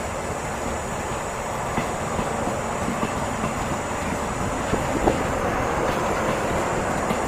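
Eastern and Oriental Express passenger train pulling out of the station, its carriages rolling past in a steady rumble of wheels on rails with a few scattered clicks.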